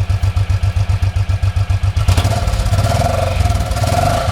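2008 Suzuki C109R V-twin motorcycle exhaust idling with an even pulsing beat, then revved up about two seconds in.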